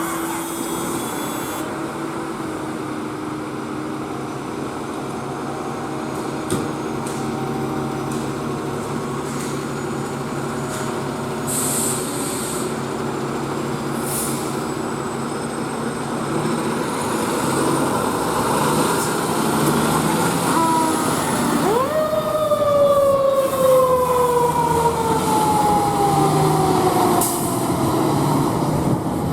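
Seagrave Marauder II fire truck's diesel engine running as the truck pulls out. About 22 seconds in, a mechanical siren winds up quickly and then slowly winds down in pitch.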